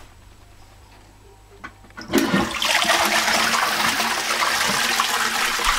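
Toilet flushing: after about two seconds of quiet and a faint click, a loud rush of water starts suddenly and keeps running.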